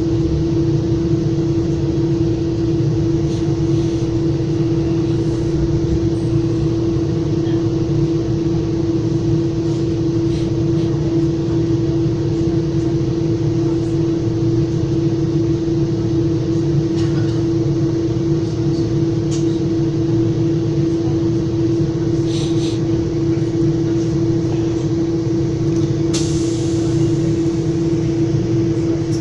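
Metra commuter train heard from inside a moving passenger coach: a steady low rumble of wheels on track with a constant hum. A few faint clicks, and a short hiss about three seconds before the end.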